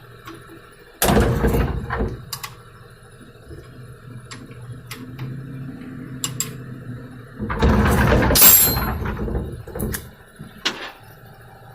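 A 16 mm socket wrench working a car's oil drain plug loose: sharp metal clicks and clanks, with a loud burst of handling noise about a second in and a longer, louder one in the second half.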